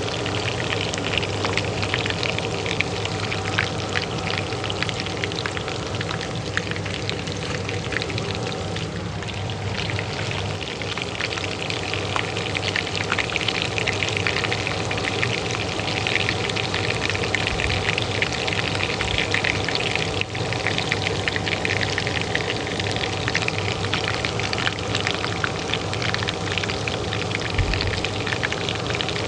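Oil frying in a pan, a dense steady crackle and spatter, over the steady hum of a kitchen range hood fan.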